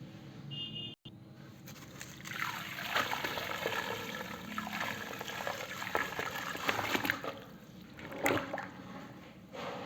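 Dry cement and concrete powder being wetted with water: a dense, crackling trickle from about two seconds in until about seven seconds, then a single sharp splash a little after eight seconds.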